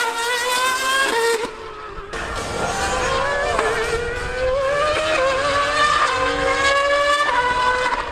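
High-revving racing engine accelerating hard through the gears, its pitch climbing and dropping back with each upshift. It dips briefly about a second and a half in.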